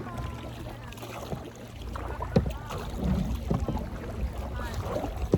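Canoe under paddle: water noise against a low wind rumble on the microphone, with two sharp knocks, one about two and a half seconds in and one near the end.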